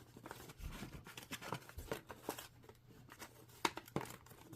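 Paper rustling and crinkling as paper pieces are handled and pressed together with tape, with a couple of sharper clicks about three and a half and four seconds in.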